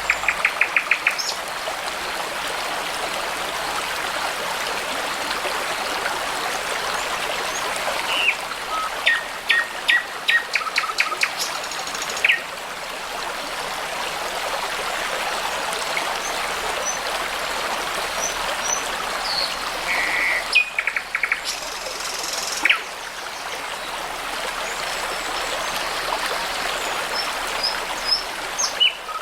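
Small brook babbling steadily while songbirds sing over it in short phrases of rapid repeated notes and clear whistles, several times through.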